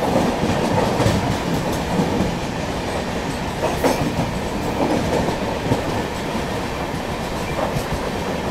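Passenger train coaches running past on the next track: a steady rail rumble with wheels clacking over the rail joints, a few sharper clacks about four seconds in.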